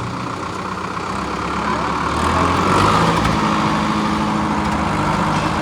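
Tractor engine running, its speed and loudness rising about two to three seconds in, then holding at the higher note.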